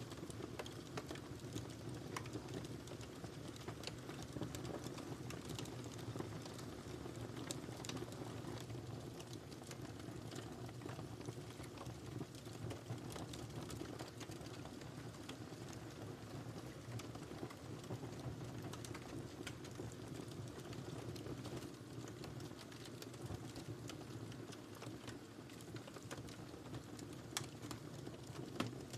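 Wood fire burning in a fireplace: a steady low rush of flames with frequent small crackles and pops scattered irregularly, and one sharper pop near the end.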